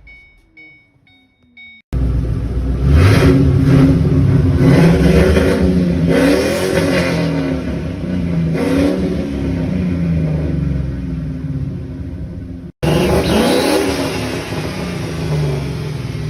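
Turbocharged Ford Mustang V8 on its first start-up after the turbo install, not yet tuned, running with the revs rising and falling. Near the start the engine is off and a car chime beeps several times. About two seconds in the engine sound returns abruptly.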